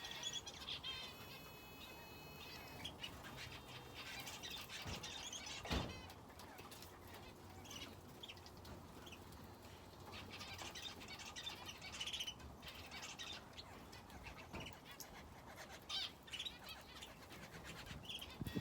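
Aviary finches and a canary chirping and twittering in short scattered calls, with some wing flutter. There is a single soft thump about six seconds in.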